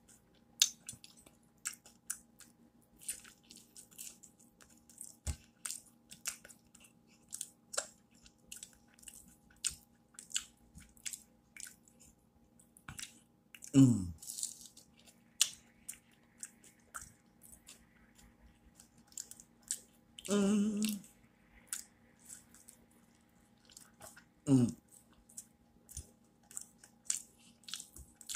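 Close-up eating sounds of a person chewing and biting fried potatoes and a grilled cheese sandwich: a steady run of short wet chewing and lip-smacking clicks. Three brief low vocal sounds break in, about halfway and twice more near the end, two of them falling in pitch.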